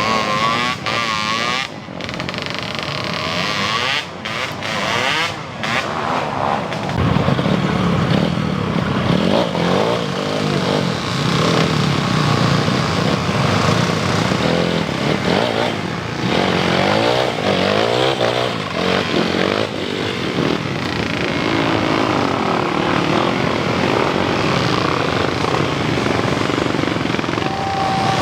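Motocross dirt bike engines revving hard under load on a steep climb. Their pitch rises and falls over and over, and several engines overlap at times.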